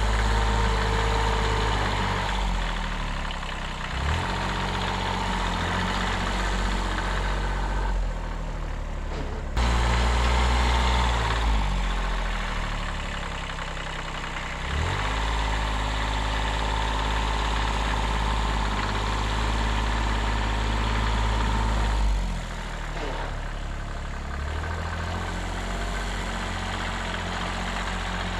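The small 14 hp diesel engine of a 1978 Kubota B6100 tractor running while plowing snow. Its speed dips and recovers several times, and its loudness changes abruptly twice.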